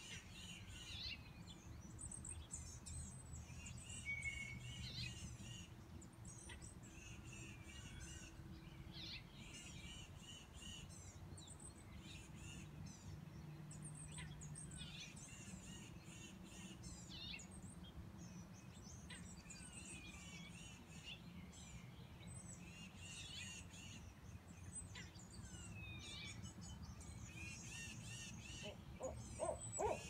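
Small birds chirping and calling on and off over a faint low hum; about a second before the end an owl starts a loud run of hoots.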